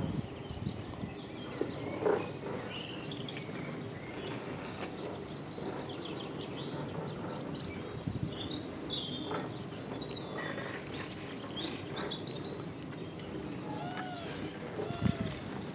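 Several wild birds chirping and singing in short calls and trills over a steady background rumble, with a brief knock about two seconds in.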